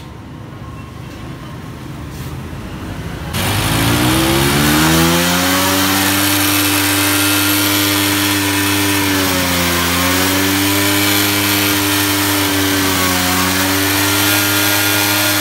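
Honda CD70's 72 cc single-cylinder four-stroke engine starting a little over three seconds in, its pitch climbing as it revs up. It then runs steadily, dipping briefly twice. It is running again now that water has been cleared out of its carburettor.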